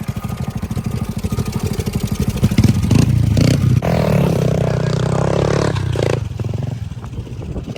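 Pit bike engine running at low revs with a fast pulsing beat, then revved up from about three seconds in and held for a few seconds before easing back down.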